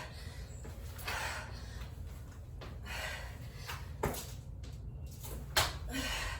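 A person breathing hard during jump-rope intervals, a rush of breath every second or two, with two sharp taps in the second half.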